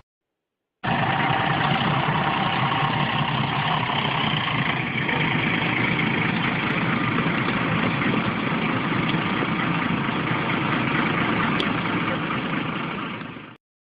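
Steady vehicle engine and road noise that starts abruptly about a second in and cuts off sharply near the end, with no clear impact.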